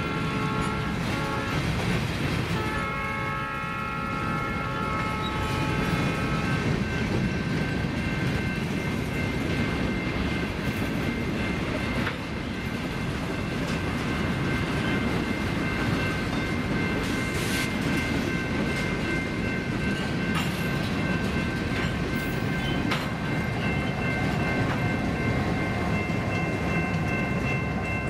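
Freight train of covered hoppers and tank cars rolling past, with steady wheel-on-rail rumble and clicking over the rail joints. A locomotive horn sounds twice in the first six seconds: a short blast at the start, then a longer one from about three to six seconds in.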